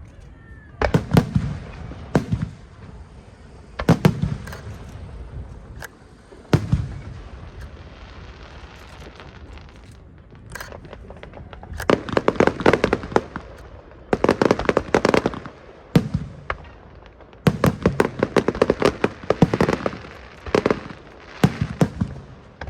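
Aerial fireworks bursting overhead. There are single sharp booms a second or two apart at first. From about halfway in, rapid rolling barrages of many bursts follow, in three clusters.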